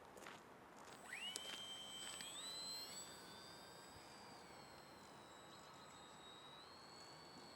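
Faint whine of a small RC foam plane's electric motor and propeller throttling up: the pitch rises quickly about a second in, climbs again about two seconds in, then holds steady.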